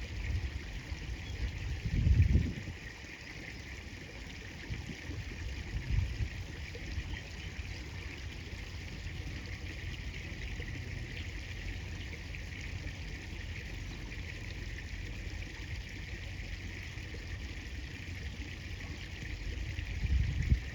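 River water running and trickling steadily around the angler. A few short low thumps stand out, the loudest about two seconds in, another near six seconds and one near the end.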